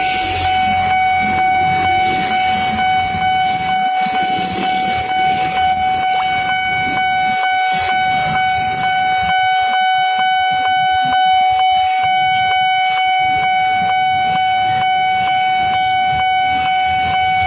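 Railway level-crossing warning alarm sounding without a break: one held high tone with regular ticks over it. In the first several seconds an electric commuter train runs by, a rumbling hiss under the alarm.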